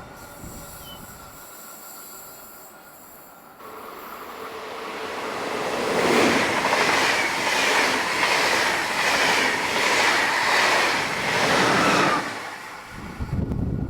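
A passing vehicle: a steady noise builds up over a few seconds, stays loud with an even repeating beat, then drops away sharply, with a low thump near the end.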